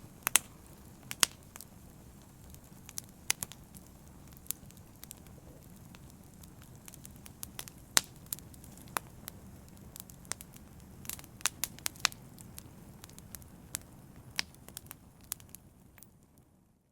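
Open fire burning and crackling, with irregular sharp pops over a steady low rumble of flame. The sound fades out just before the end.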